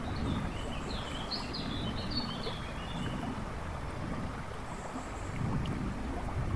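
A river rushing and babbling over stones, its low rush swelling and ebbing. A small bird chirps a short run of high notes about half a second in, against the water.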